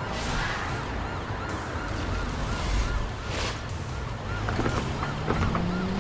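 A police siren wails fast up and down, about twice a second, over a car engine running. About four and a half seconds in, the engine pitch rises as it revs up.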